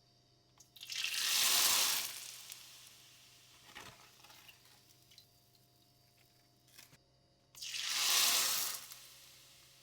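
Deep-frying oil sizzling loudly in two bursts as dry rice noodles or rice paper go into the hot oil and puff up. The first burst comes about a second in and the second near the end, each fading into light crackling.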